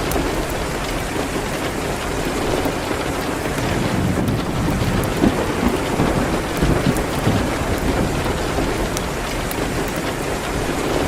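Steady rain hitting a window, mixed with the scattered sharp crackles of a wood fire. A low rumble swells briefly about five to seven seconds in.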